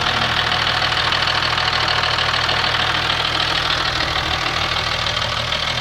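Opel Signum's 3.0 CDTi V6 common-rail turbodiesel (Isuzu Y30DT), warm and idling steadily with a nervous, clacky noise. The owner suspects the valve clearances need readjusting.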